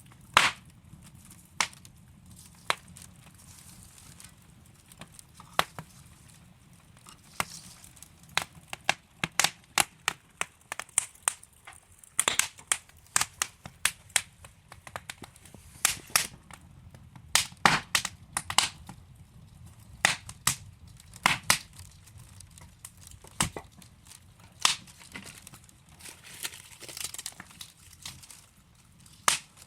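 Wood fire crackling in a fireplace: irregular sharp pops and snaps from burning logs, several a second at times, over a low steady rush of flame.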